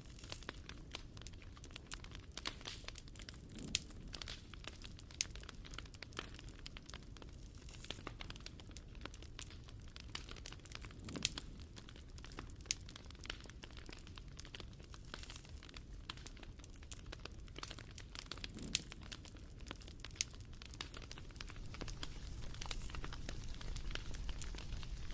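Wood fire crackling: a constant scatter of small irregular pops and ticks, with a few louder snaps every few seconds over a low steady rumble.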